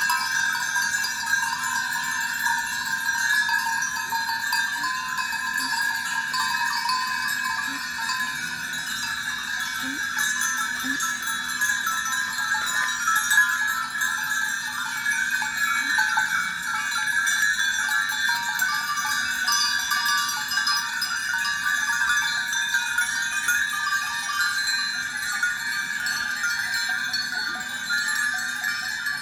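Sheep bells jingling steadily across a flock, with an occasional sheep bleating.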